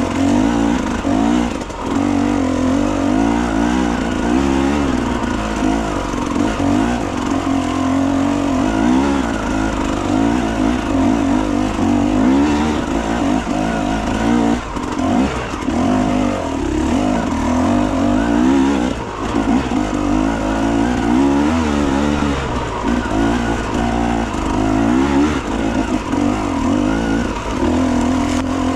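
Enduro motorcycle engine running hard, its revs rising and falling continually as the throttle is worked.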